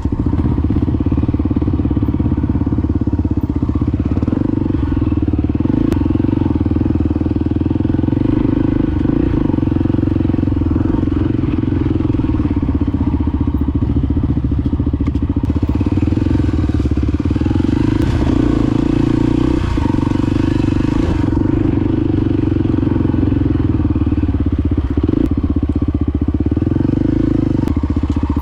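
Honda XR250 Baja's single-cylinder four-stroke engine running steadily while riding, with brief throttle and pitch changes now and then.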